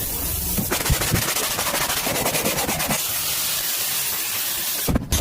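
High-pressure car-cleaning jet hissing steadily for about four seconds, then cutting off abruptly near the end.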